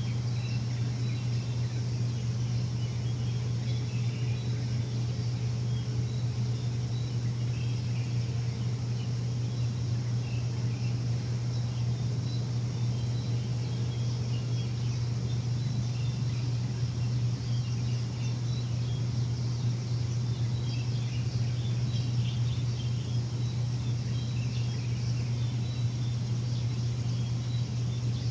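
A machine's steady low hum, with birds chirping faintly over it.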